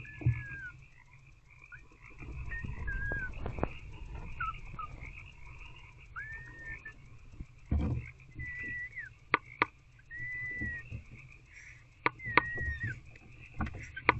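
A chorus of frogs calling, a steady mass of calls with separate short, curved calls standing out above it. Scattered low thumps and a few sharp clicks come through as well.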